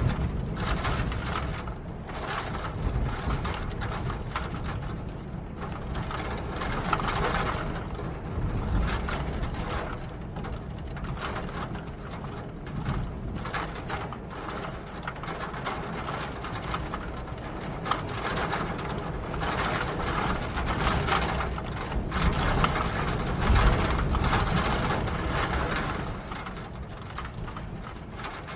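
Steady rain pattering in a dense stream of fine drop ticks, over a low rumble, swelling and easing in waves and falling off a little near the end.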